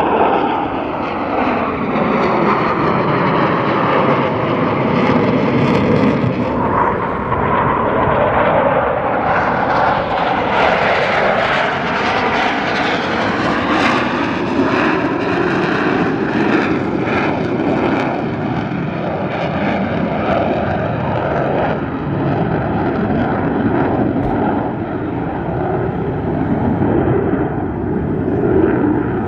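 Jet noise from a formation of US Navy Blue Angels F/A-18 Super Hornets flying overhead: a loud, continuous rush of engine noise with bands that slowly sweep up and down in pitch as the jets move across the sky.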